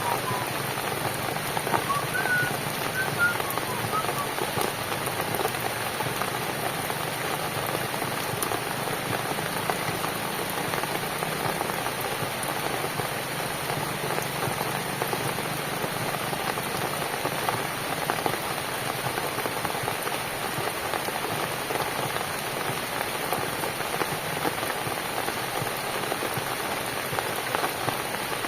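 Steady rain falling on a cabin, an even, unbroken sound of many drops with no letup.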